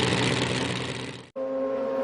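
Motorcycle engine exhaust running and dying away, then an abrupt cut about a second and a half in to another motorcycle engine idling on a steady, even note.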